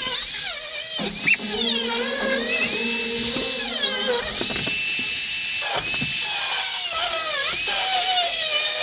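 Electric drill whining, its speed rising and falling as the trigger is worked, held steady twice for about a second.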